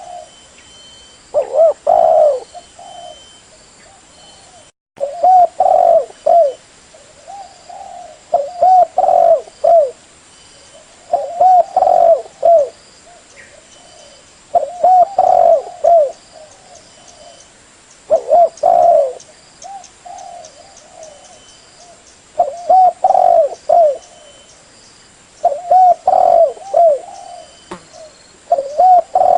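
Spotted dove (derkuku) cooing: a phrase of several low coo notes repeated about every three seconds, with faint high chirps from other small birds in the background.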